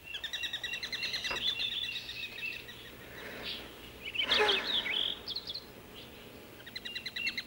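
Birdsong: rapid trills of short repeated chirps, with a louder, jumbled call about four seconds in.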